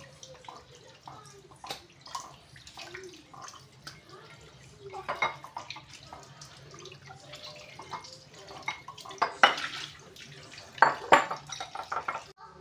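Tap water running onto raw pork chops in a bowl while hands rub and rinse the meat, with irregular splashes and wet slapping. The splashing is stronger about five seconds in and again near the end.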